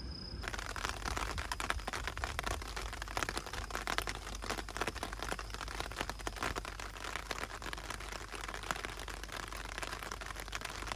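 Rain falling hard: a dense, even crackle of drops striking surfaces, which cuts in abruptly about half a second in.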